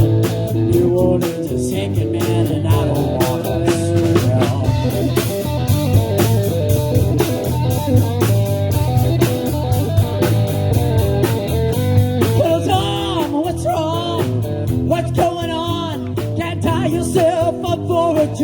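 Rock band playing a song: electric guitars over bass guitar and a drum kit, with a steady beat kept on the cymbals.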